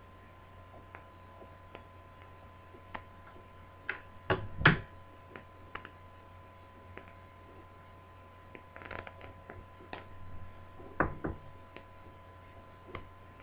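Scattered small clicks and taps of laptop parts, screws and a screwdriver being handled during disassembly, with a couple of louder knocks about four and a half seconds in and again near eleven seconds. A faint steady hum runs underneath.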